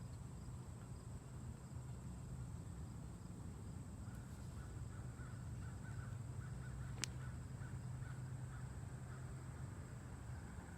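Quiet outdoor ambience: a low steady rumble and a thin steady high tone, with a run of short repeated bird calls in the middle and one sharp click partway through. No train horn is heard yet.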